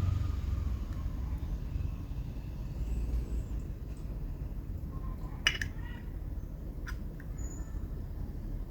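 Two sharp metallic clicks about a second and a half apart, the first with a short ring, from a brass Zippo lighter being handled, over a steady low rumble of background traffic.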